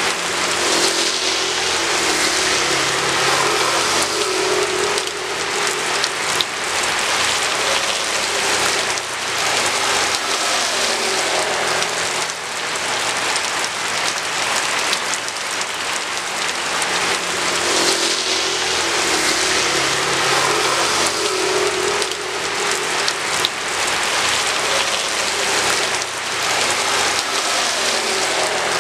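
Steady rain pattering on hard surfaces. Under it, a low hum of road traffic going by swells twice.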